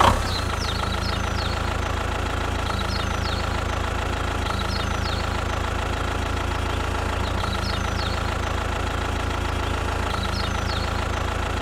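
An engine idling steadily at one even speed, with short high bird chirps recurring every couple of seconds.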